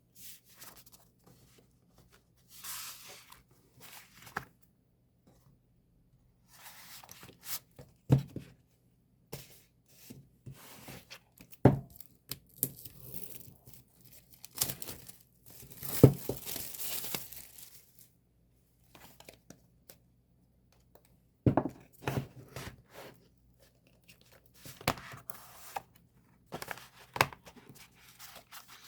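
A K-pop album's packaging being torn open and crinkled by hand, in irregular bursts of rustling broken by sharp clicks and taps.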